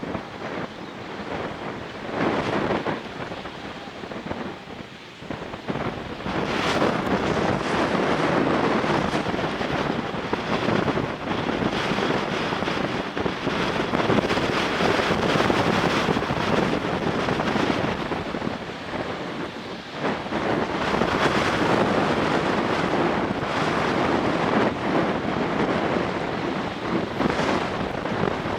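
Strong, gusty wind buffeting the microphone, rising and falling in blasts and growing louder about six seconds in.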